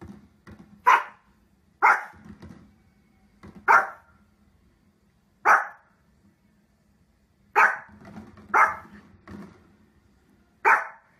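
Small dog barking: about seven loud, short, sharp barks at uneven gaps of one to two seconds, with quieter barks between them.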